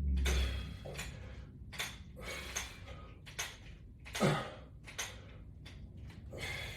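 A man's short, noisy breaths and exhalations during a resistance band exercise, coming irregularly every half second to a second, one with a brief falling voiced note about four seconds in.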